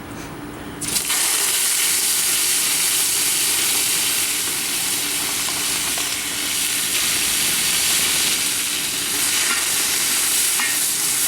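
Raw chicken going into a very hot, oiled carbon-steel wok: a sudden loud sizzle starts about a second in and carries on as a steady hissing fry.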